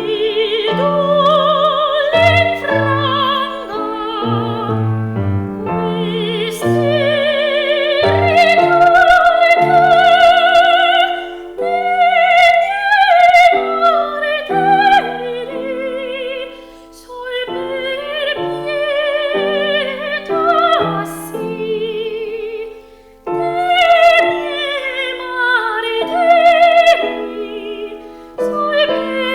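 Operatic-style singing with wide vibrato over piano accompaniment, one continuous phrase-by-phrase melody.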